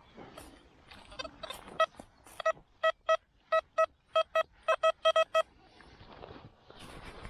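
Metal detector giving a series of short electronic beeps on one pitch, about a dozen, coming faster toward the end as it closes in on a target.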